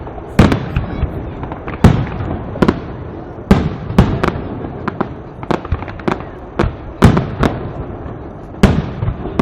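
Aerial fireworks display: shells bursting in about a dozen sharp bangs at uneven spacing, over a continuous crackle and rumble of smaller bursts.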